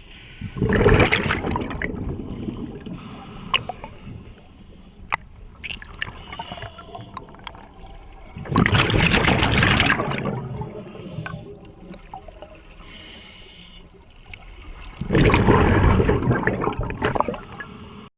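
Scuba diver breathing underwater: three loud gurgling rushes of exhaled bubbles from the regulator, about seven seconds apart, with a faint hiss and a few clicks between the breaths.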